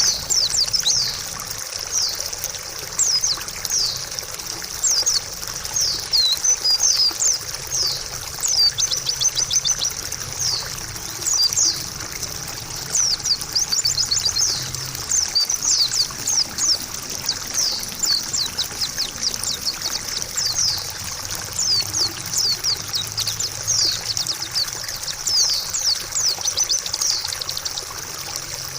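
Pleci (white-eye) birdsong, a fast run of high, thin chirps and trills, over steadily trickling water.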